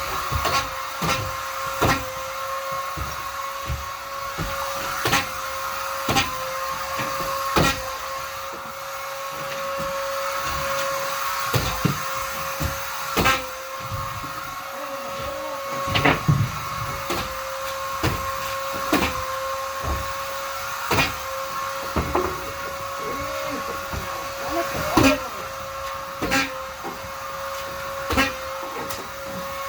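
Vacuum cleaner motor running with a steady high whine, with irregular knocks and clicks every second or two.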